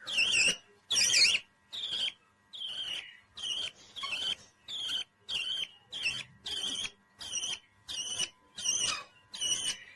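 A pet parrot calling over and over: a short, high chirping call repeated at an even pace, roughly every two-thirds of a second.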